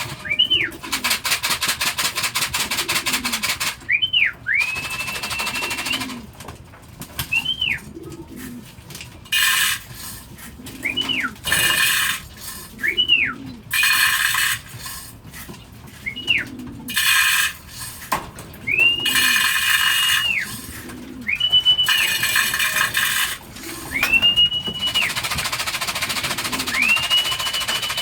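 Racing pigeons cooing while a person whistles over and over, short rising-and-falling whistles and some held ones, the whistle used to call the pigeons in to the loft trap. Several bursts of rustling noise come in between.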